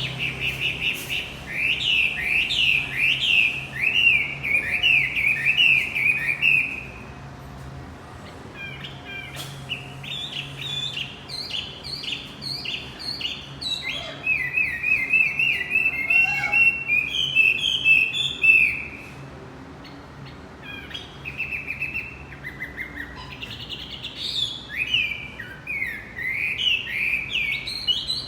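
A male wambi bird singing: long runs of rapid, sharp, repeated chirping notes, broken by a couple of short quieter pauses. The song serves as a 'pancingan' lure, played to prompt a caged bird that has stopped singing.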